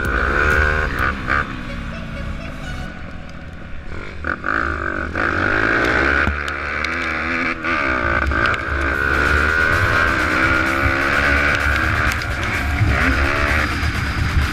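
Pit bike engine revving up and down repeatedly while riding, its pitch rising and falling with the throttle.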